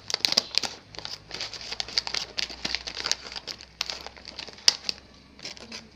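Plastic food packaging crinkling and being worked open, an irregular run of crackles and sharp clicks.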